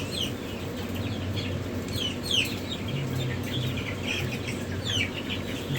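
A crowd of newly hatched chicks peeping, short high downward-sliding peeps overlapping several times a second, over a steady low hum.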